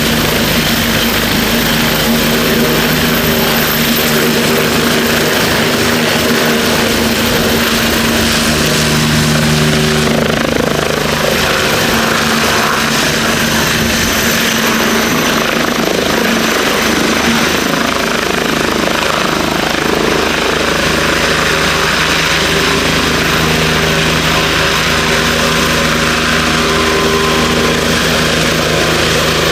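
Twin-engine turbine helicopter running close by: a steady, loud blend of rotor and engine noise with a thin high turbine whine over it.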